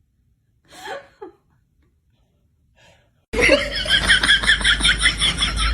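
A person's short faint sound, then about three seconds in a sudden burst of hard laughter in rapid rhythmic pulses that carries on to the end.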